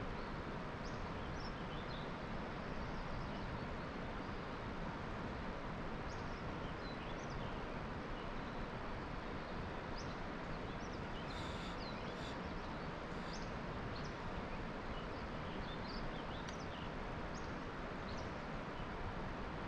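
Outdoor ambience: a steady even hiss with short, high bird chirps scattered throughout, and two brief ticks a little past halfway.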